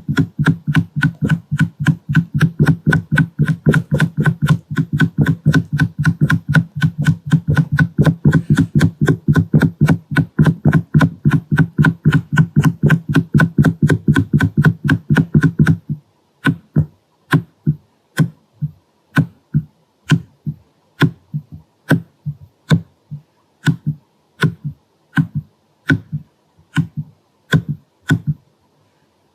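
Rapid stamping taps on the camera lens, about four a second, each with a soft, low thud. About halfway through they change to slower, thinner taps, roughly one or two a second with short pauses between.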